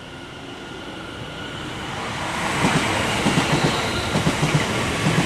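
Class 350 Desiro electric multiple unit passing through, its rumble swelling steadily as it approaches. From about two and a half seconds in, the wheels knock over rail joints in a repeating clickety-clack.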